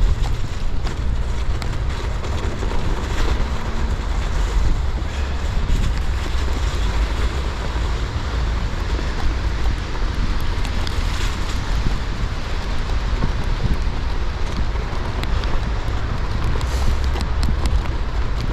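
Wind rumbling steadily on an action camera's microphone while a gravel bike rolls at low speed, its tyres hissing over snowy, icy ground.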